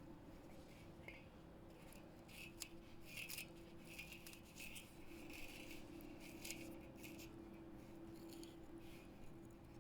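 Wood campfire burning quietly, with faint irregular crackles and pops over a low steady hum.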